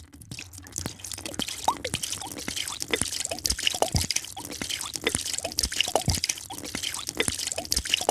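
Liquid being poured into a drink, heard as many small dripping plops and clicks over a continuous fizzing hiss.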